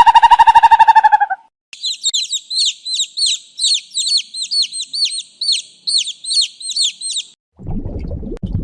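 A bird chirping: a quick series of short, high, down-slurred chirps, about four a second, for some five seconds. Before it, a loud buzzing pitched call cuts off about a second in, and a low rumbling noise starts near the end.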